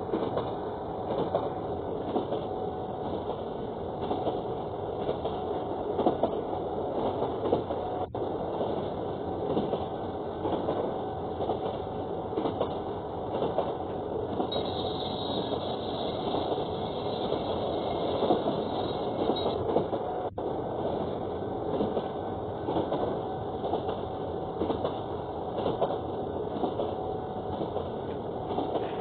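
A train running along the track, a continuous rumble and rattle of wheels and cars, with a brief higher squeal or hiss about halfway through.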